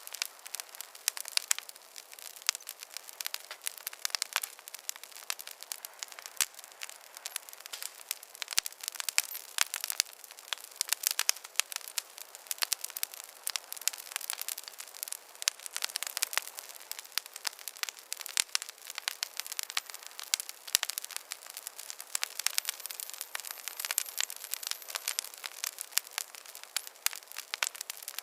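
Campfire crackling: a dense, irregular run of sharp pops and snaps over a soft hiss, with no low rumble.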